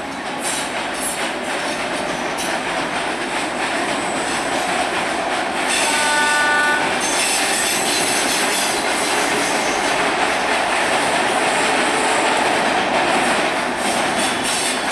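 Electric multiple unit local train running across a steel truss bridge, its wheels clattering over the rail joints in a steady rumble. A short horn blast sounds about six seconds in.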